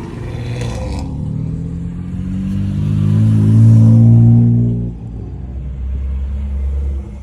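Car engine idling, then revving up with a rising pitch that is loudest around three to four seconds in, before dropping sharply back to a low idle about five seconds in. A brief rattle comes just before one second in.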